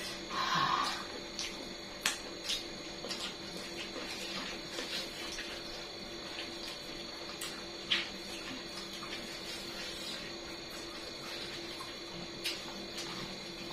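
A person eating: quiet chewing and mouth sounds, with a short smacking burst about half a second in and a few sharp clicks, over a steady background hum.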